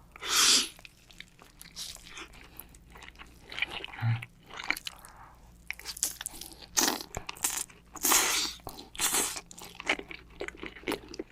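Fried chicken being bitten into and chewed: irregular crisp crunches, the loudest right at the start and another cluster in the second half.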